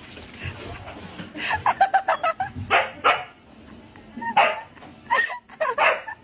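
A dog barking repeatedly in short, sharp barks.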